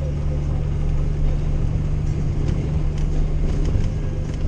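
Old Jeep driving on a snow-covered road, heard from inside the cab: a steady low engine and tyre drone.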